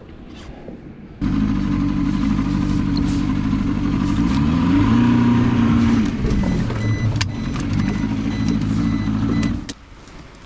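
A motor engine running steadily, cutting in abruptly about a second in. Its pitch climbs about four seconds in as it revs up, then drops back a second or so later, with a few sharp knocks over it. It stops suddenly near the end.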